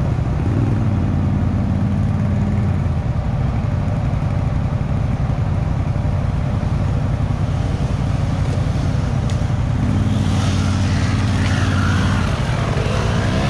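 Motor vehicle engine running steadily at a low pitch, with the sound shifting up and down in pitch from about ten seconds in.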